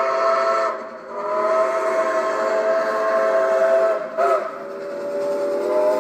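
A locomotive sounding a chord of several steady notes in long blasts. The chord breaks off briefly about a second in, sounds again at length, cuts out with a short blip just after four seconds, then comes back and carries on.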